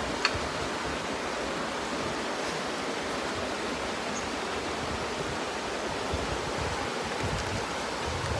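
Steady, even hiss of rushing water, with a single sharp click about a quarter of a second in.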